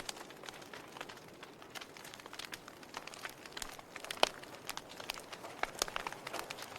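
Wood logs burning in a fireplace, crackling with irregular sharp pops over a soft steady hiss. The loudest pop comes about four seconds in.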